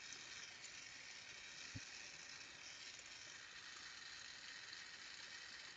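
Carlisle glassworking torch flame hissing faintly and steadily, with one small soft knock about two seconds in.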